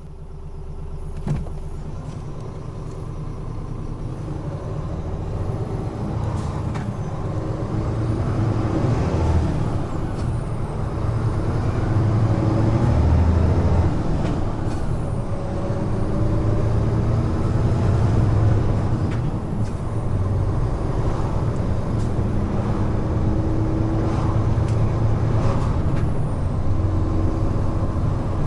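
Heavy truck's diesel engine running under load with tyre and road noise, growing louder over the first several seconds and then holding steady at speed. A single sharp click about a second in.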